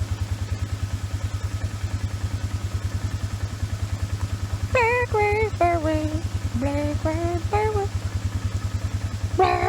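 Four-wheeler (ATV) engine running with a steady, rapid low pulsing. A woman's high voice calls out in short phrases partway through and again near the end.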